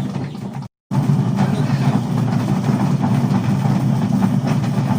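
An electric motor running with a steady low hum, with a brief break of silence just under a second in.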